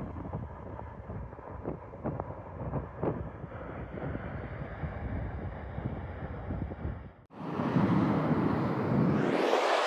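Wind buffeting the microphone in low, gusty thumps, then after an abrupt cut the loud rush of a McDonnell Douglas F-15's jet engines on approach, the rushing noise rising in pitch near the end.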